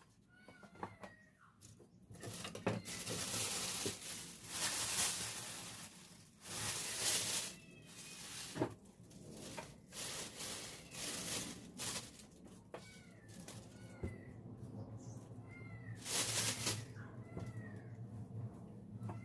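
A cat mewing over and over in short, high calls, with loud bursts of hiss-like rustling noise that start about two seconds in and come again near the end.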